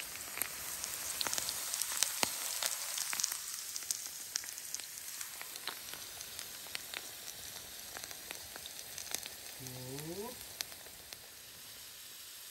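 Potatoes frying in a pan of hot oil: a steady sizzle with many sharp crackling pops, easing off a little near the end.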